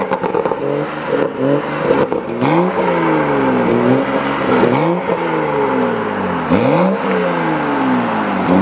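BMW M235i's 3.0-litre turbocharged straight-six, breathing through a de-catted downpipe, revved hard about four times: each quick blip rises sharply and then falls back slowly, with sharp pops on the blips and overrun.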